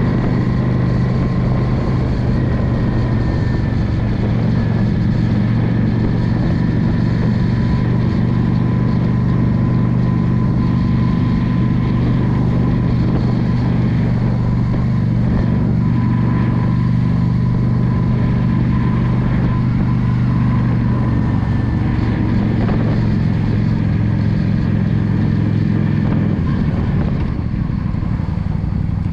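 Yamaha V Star 650's air-cooled V-twin engine running steadily under way, over wind and road noise. The engine note shifts about two-thirds of the way through and eases slightly near the end.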